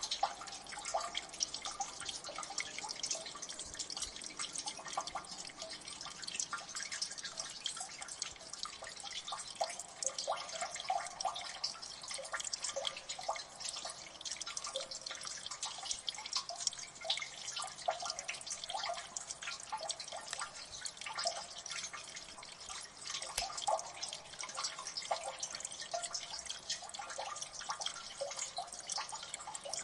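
Water dripping steadily in a gully, many small irregular drops plinking in quick succession.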